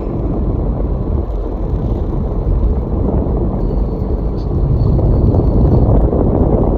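Steady road noise inside a moving car's cabin: a low rumble of tyres, engine and wind, rising a little about four seconds in.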